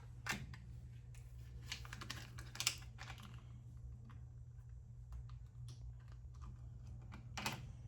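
Scattered light clicks and taps of small, strong magnets being picked up and set against a metal lathe bed, over a steady low hum.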